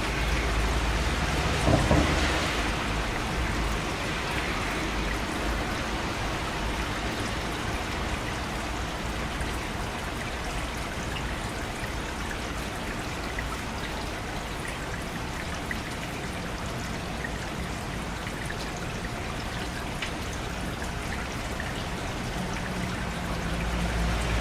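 Steady rain, with a low rumble of thunder fading out over the first few seconds and another rumble building near the end.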